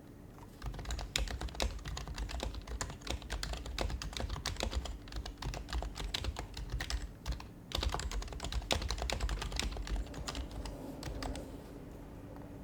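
Fast typing on an HHKB Professional HYBRID Type-S keyboard, with its silenced Topre capacitive switches giving soft keystrokes. The typing pauses briefly past the middle, resumes, and thins to a few last strokes near the end.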